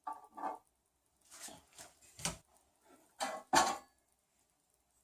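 Plastic printer parts and hardware being handled on a work surface: a series of short knocks and clicks, loudest a little past halfway.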